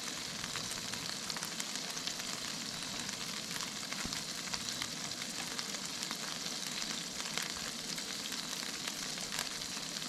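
Bison burger patties frying in a pan: a steady sizzle dotted with many small crackles and pops of fat.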